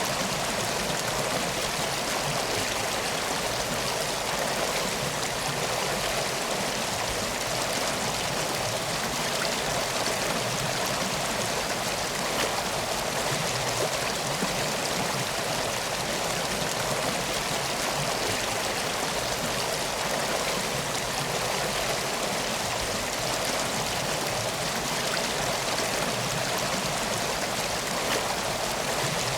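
River water flowing steadily, an even rushing sound with no change in level.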